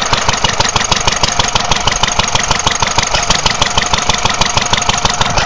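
International Harvester LA 1 1/2–2 1/2 hp single-cylinder antique engine idling slowly, a steady even beat of about six strokes a second.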